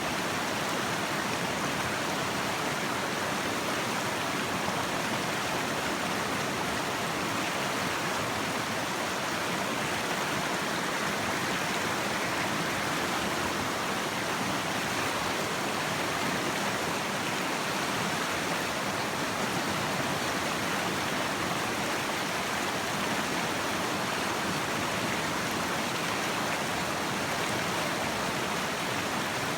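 River rapids rushing steadily: whitewater of a class II river at low flow.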